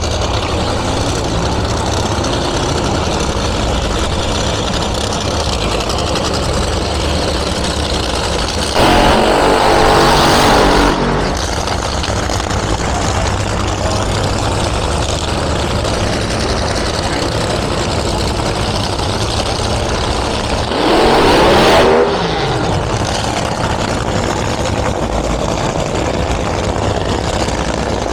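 An engine idling steadily, revved up twice for a couple of seconds each time, about nine seconds in and again about twenty-one seconds in.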